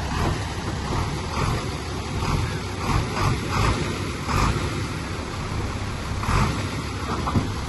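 Heavy earthmoving machine's diesel engine running steadily with a low drone, overlaid by a series of short rushing noises in the first half and once more near the end.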